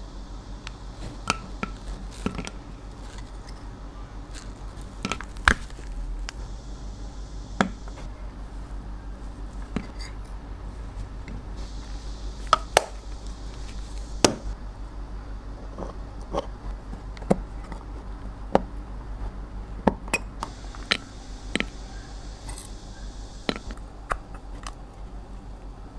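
Irregular light clicks and taps, roughly one a second, as small cosmetic cases and tools are handled and set down, over a low steady hum.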